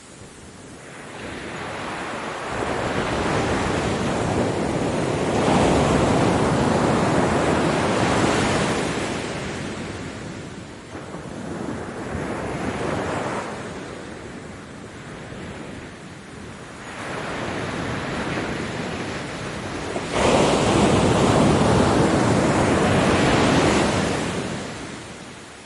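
Ocean surf washing onto a beach, building and falling away in several swells. Late on, one wave breaks with a sudden loud surge, then fades as it draws back.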